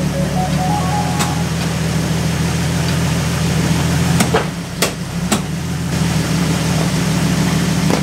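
Jeep Wrangler TJ engine idling steadily with its 32RH three-speed automatic transmission in gear. About four seconds in, the engine note dips briefly amid a few sharp clunks.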